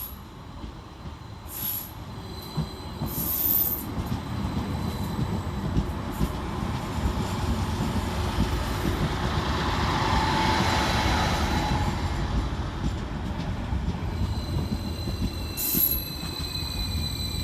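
Transport for Wales Class 231 Stadler FLIRT diesel-electric multiple unit running into the platform. Its running noise builds to a peak in the middle, with a brief squeal at the loudest point and a high whine falling in pitch near the end as it slows.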